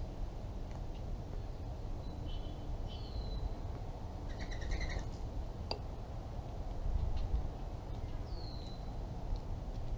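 Songbirds calling in the background: a few short whistles, two of them falling in pitch about three and eight seconds in, and a quick twittering phrase around the middle, over a steady low outdoor rumble. A single sharp click just before the six-second mark.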